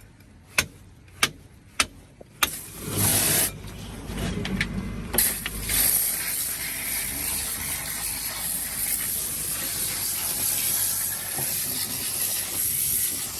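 Four sharp metallic clicks a little over half a second apart, then a loud rushing noise starts and settles into a steady hiss.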